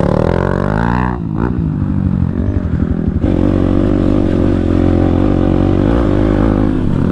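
Motorcycle with a full-system aftermarket exhaust, dB killer removed, running loud under way. The engine note drops and picks up again about a second in, then holds a steady throttle from about three seconds on.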